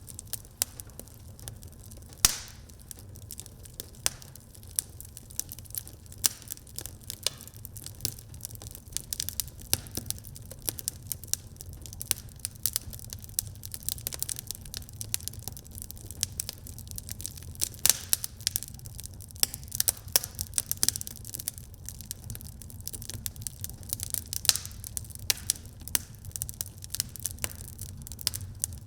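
Wood fire burning in a fireplace, crackling with frequent irregular pops over a steady low rumble of the flames, one louder snap about two seconds in.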